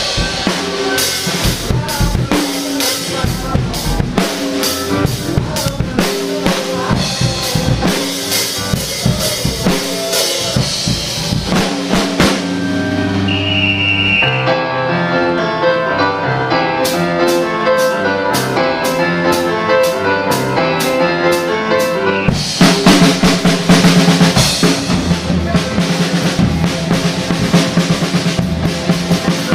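DW drum kit played along to a rock backing track, with kick, snare and cymbals. About halfway through the kit drops to a sparser pattern of evenly spaced sharp strikes over the backing, then the full groove comes back.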